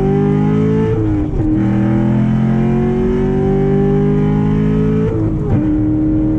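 Straight-piped 6.2-litre LT1 V8 of a tuned 2014 Corvette Stingray at full-throttle acceleration on a rolling pull. The pitch climbs steadily through each gear, with an upshift about a second in and another about five seconds in.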